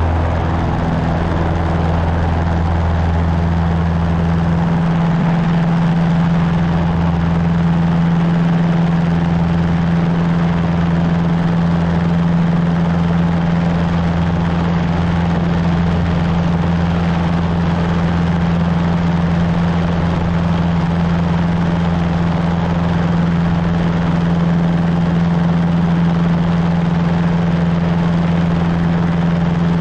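Cessna 150's Continental O-200 four-cylinder engine and propeller running at a steady drone, with a slight shift in the low engine note about four seconds in.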